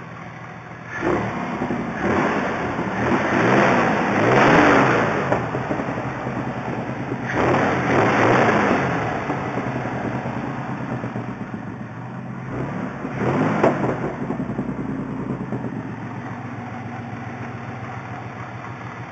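1986 Ford Mustang LX's 3.8-litre V6 idling and revved about four times: two long revs climbing and falling back in the first half, then a small blip and a sharp, quick rev before it settles back to a steady idle.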